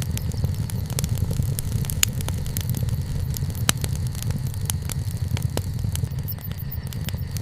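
Wood bonfire burning, crackling with frequent sharp pops over a steady low rumble.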